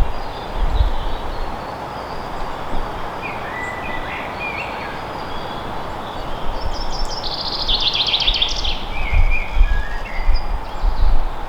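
Forest ambience: a steady hiss of wind with low rumbling gusts, and songbirds calling. Scattered chirps come first, then a fast trilled phrase of rapidly repeated notes past the middle, the loudest bird sound, followed by a few more chirps.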